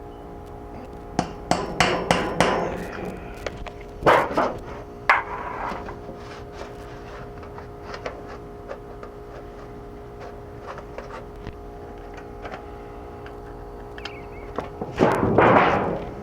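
Knocks and taps from sheet metal being worked by hand: a quick run of knocks, a couple more a few seconds later, then a longer metallic clatter near the end.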